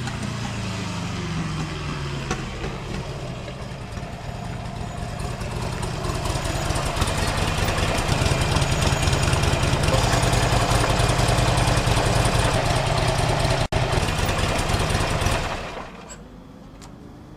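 Motorcycle engine running. Its pitch falls in the first couple of seconds, then it runs louder and steady through the middle, cuts out for an instant, and fades away shortly before the end.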